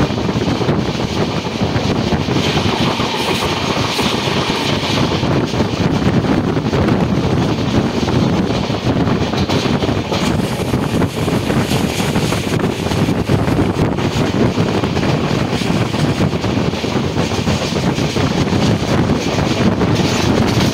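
Express passenger train running at speed, heard from a coach window: a steady rumble of wheels on the track, with wind blowing across the microphone.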